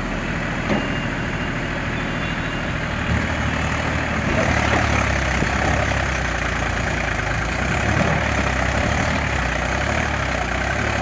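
Tractor engine running steadily with a low hum, a little louder from about four seconds in.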